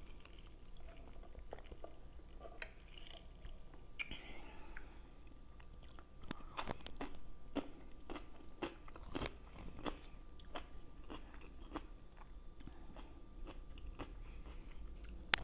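Close-up chewing of a mouthful of food: a run of wet smacking and clicking mouth sounds that grows busier and louder about six seconds in.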